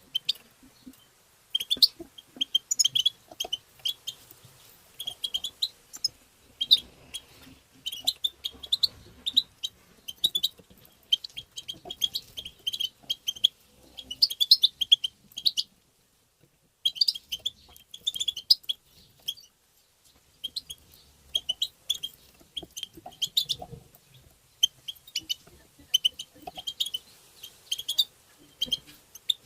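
European goldfinch twittering: quick, bright chirps in clusters, stopping for about a second near the middle.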